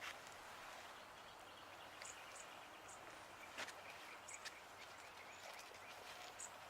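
Near silence: faint outdoor ambience with a few brief, high bird chirps and a couple of light clicks.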